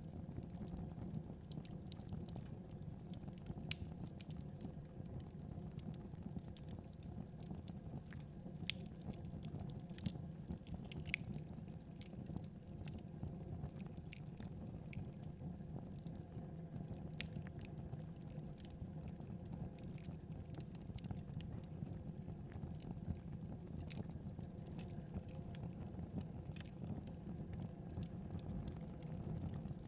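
Wood fire burning and crackling: a steady low rumble of flames with frequent sharp pops and snaps scattered irregularly throughout.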